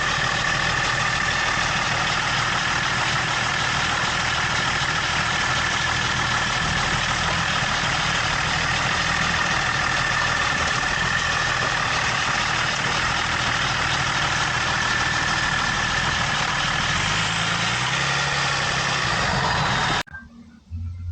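Range Rover L322 on the move, with steady engine and road noise and a slight rise in engine pitch near the end, cutting off abruptly. The clicking of its failing CV axle barely comes through.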